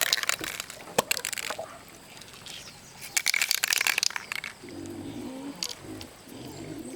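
Two bursts of crunching and crackling, then from about two-thirds of the way in an animal's low, repeated pitched calls.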